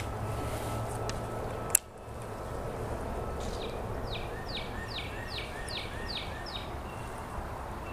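A bird calls a run of seven quick notes, each sliding down in pitch, over a steady outdoor noise bed. A single sharp click sounds a little under two seconds in.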